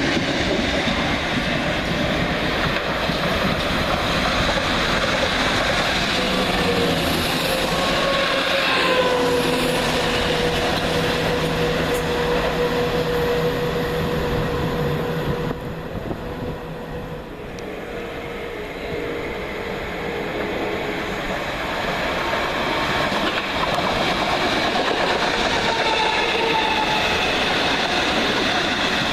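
Electric multiple-unit train running through the platform: a constant rumble of wheels on the rails with a steady motor whine through the middle part. The sound eases briefly a little past halfway, then builds again.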